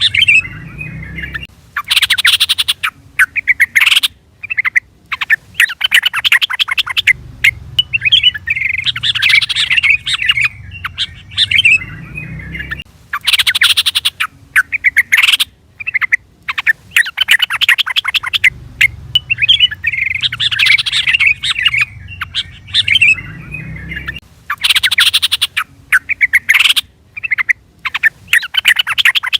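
Yellow-vented bulbul (trucukan) calling and singing in bursts of rapid, bubbly chattering notes. A similar phrase comes back about every six seconds, like a looped recording used as a lure call.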